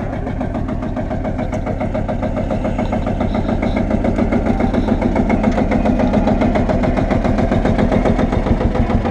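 Vintage car engine idling with a steady, rapid pulse, growing louder over the first six seconds or so.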